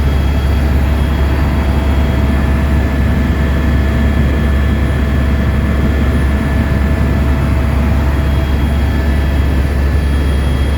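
Helicopter running steadily: a loud, even low drone with faint steady whining tones above it.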